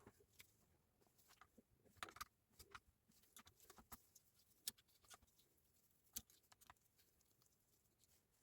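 Near silence broken by faint, scattered short clicks and light taps, a little louder about two seconds in and again near the middle.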